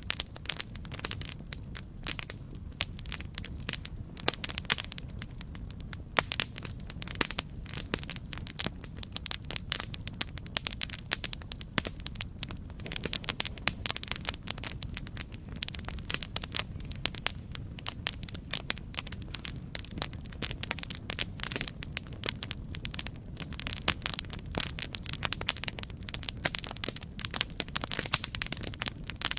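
Campfire burning with dense, irregular crackles and pops over a steady low rumble of flame.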